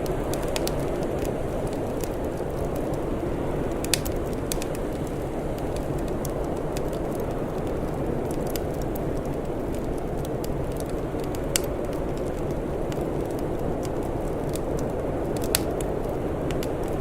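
Wood fire crackling, with scattered sharp pops, the loudest about four, eleven and fifteen seconds in, over a steady low rumbling noise.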